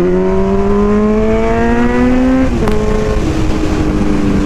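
Kawasaki Z900 inline-four engine pulling through a gear, its pitch rising steadily, then an upshift about two and a half seconds in with a click and a drop in revs, after which it runs at a steady pitch. A constant wind rush sits under it.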